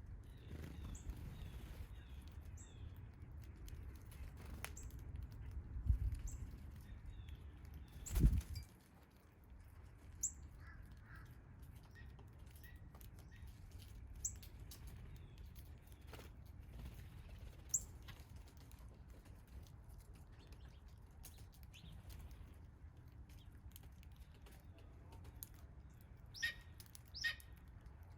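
Backyard songbirds giving scattered short, high chirps, with two stronger calls near the end, over a low steady rumble. A loud thump sounds about eight seconds in.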